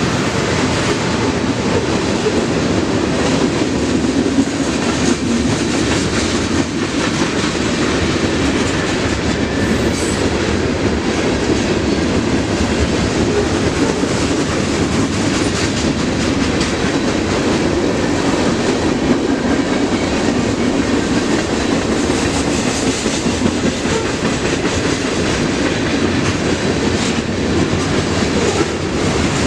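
Freight train rolling past: a steady rumble of cars with the clickety-clack of wheels over rail joints.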